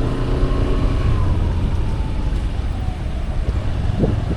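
Motorcycle engine running on the move, with a heavy rumble of road and wind noise on the microphone. A faint tone slowly falls in pitch over the first few seconds.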